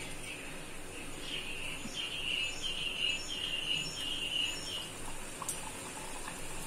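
A small bird chirping a quick run of short high notes, about three a second for some three seconds, over the faint sizzle of hot cooking oil in a deep-frying pan.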